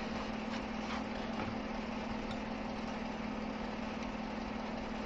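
Steady machine hum holding one constant low tone, with a few faint clicks in the first second or so.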